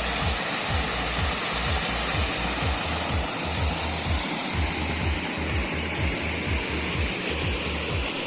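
Loud, steady rush of a mountain waterfall, with an uneven low rumble beneath the hiss.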